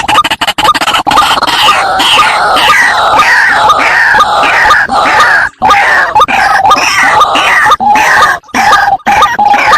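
White-breasted waterhen calls used as a lure sound. Loud, harsh notes, each falling in pitch, repeat about twice a second with a few short breaks.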